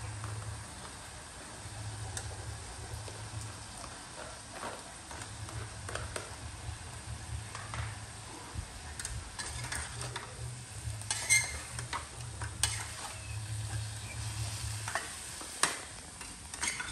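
Vegetables frying in a steel wok on a portable gas stove: a steady sizzle, with utensils clinking and scraping against the pan several times in the second half.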